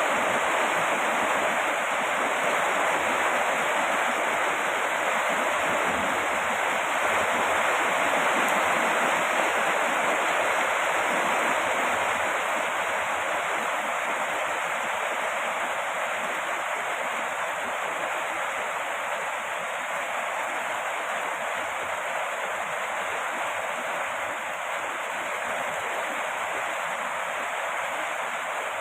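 Steady heavy rain falling, a dense even hiss with no distinct drops standing out, growing slightly quieter over the half-minute.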